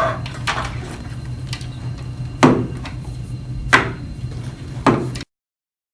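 Metal food cans being set down on a table: a few hard knocks, three louder ones about a second apart, over a steady low hum. The sound cuts off abruptly near the end.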